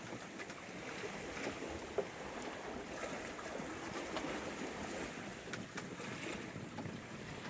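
Sea water rushing and splashing along a sailboat's hull under sail, with wind, as a steady wash of noise and a brief click about two seconds in.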